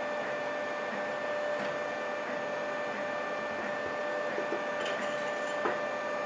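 3D printer running: a steady whir with a constant whine from its stepper motors and fan.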